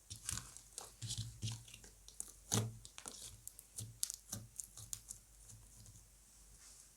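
Slime being squished and stretched by hand, giving irregular sticky pops and crackles, the strongest pop about two and a half seconds in. The popping thins out near the end.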